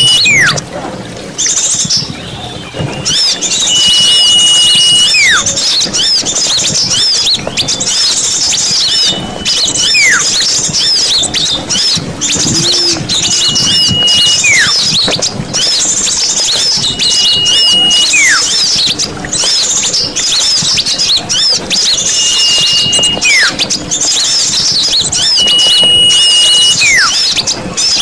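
Bird-lure recording of many small birds chattering densely and continuously. Through it runs a whistle that repeats about every four to five seconds: a held high note, then a quick downward glide.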